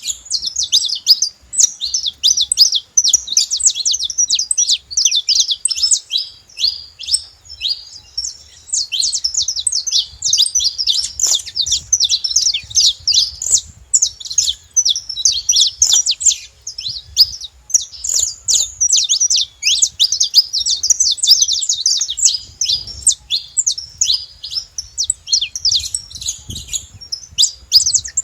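Saffron finches singing: a continuous stream of rapid, high chirps and trills.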